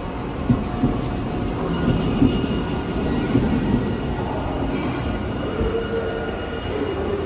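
Hiroden streetcar running at low speed on its rails: a steady low rumble with a few sharp knocks in the first few seconds as the wheels pass over rail joints or points, and a faint high wheel squeal in the later part.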